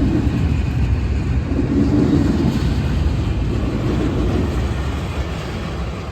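Diesel freight locomotives rumbling as a stopped freight train starts moving again: a loud, steady low rumble that eases slightly near the end.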